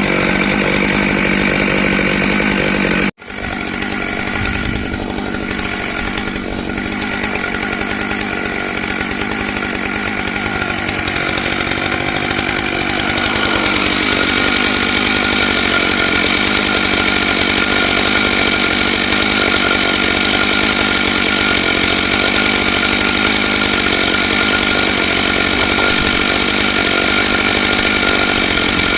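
Stihl MS661 two-stroke chainsaw running at full throttle on a chainsaw mill with a ripping chain, cutting lengthwise through a log. There is a momentary break about three seconds in.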